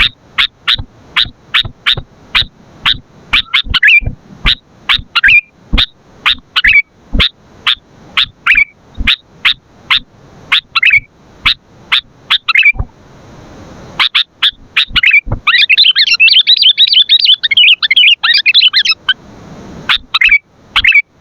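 Sooty-headed bulbul (kutilang) calling loudly in a rapid run of sharp, clipped notes, about three a second. The run breaks off briefly a little past halfway, then gives way to a dense burst of chattering lasting a few seconds.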